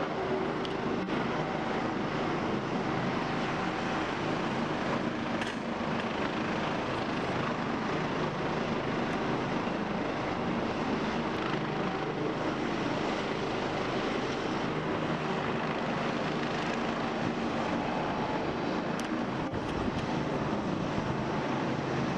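Helicopters' rotors and turbine engines running steadily.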